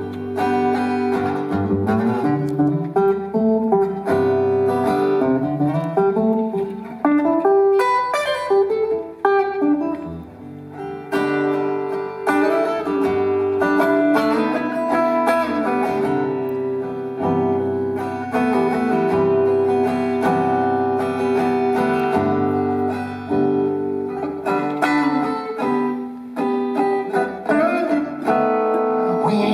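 Live band playing an instrumental break led by plucked guitar, with picked melodic lines over sustained notes.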